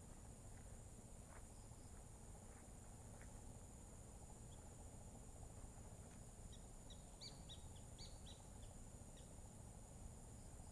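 Faint outdoor ambience: a steady high insect drone, with a short run of quick bird chirps about two-thirds of the way through.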